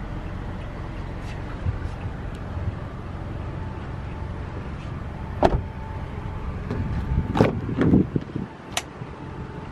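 Car interior fittings being handled: three sharp clicks or knocks over a steady low hum, with a faint steady tone in the second half.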